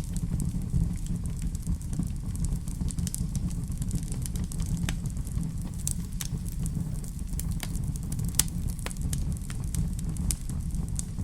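Wood fire burning in a fireplace: a steady low rumble of flames with irregular sharp crackles and pops from the burning logs, one louder pop a little over 8 seconds in.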